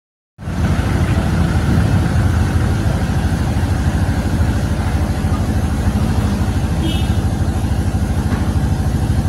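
Honda underbone motorcycle's single-cylinder engine idling steadily, a fast even pulse.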